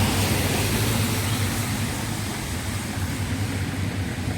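A steady low rumble with an even hiss over it, easing off slightly across a few seconds, with no distinct events.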